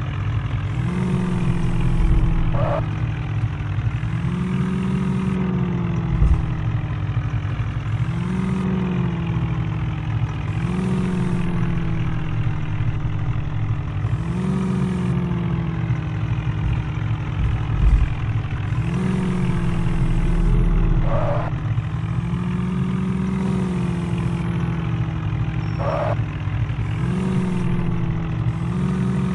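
Heavy vehicle's diesel engine running, its pitch rising and falling again about every two to three seconds as the engine is repeatedly revved or loaded.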